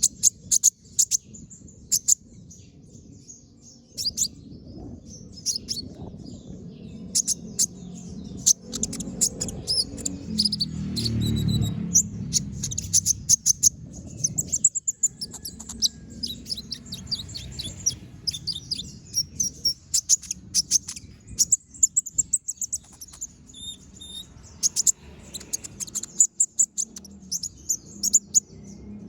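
Ruby-cheeked sunbird (kolibri ninja) singing without pause: a fast run of sharp, very high chirps and short trills in quick bursts. A low rumble sits underneath and swells for a few seconds in the middle.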